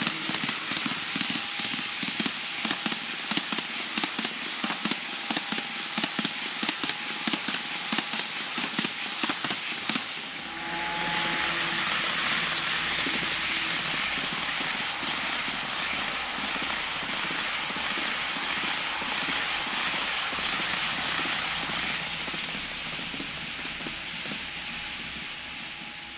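HO-scale TOMIX EF210 electric locomotive model with an ESU LokSound sound decoder: a run of rapid, irregular clicks over a steady hiss with a faint tone, then about ten seconds in a change to a louder, even noise with some low rumble, which fades out near the end.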